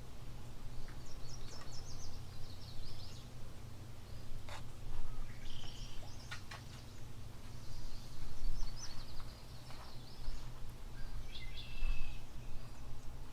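Small birds chirping in quick runs of high notes, four or five times, over a steady low rumble, with a few sharp clicks in the middle.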